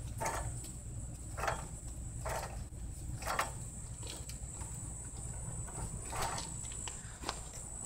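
Crickets chirring steadily, with a low rumble underneath. A few short scuffing sounds fall irregularly, about five in the first six seconds.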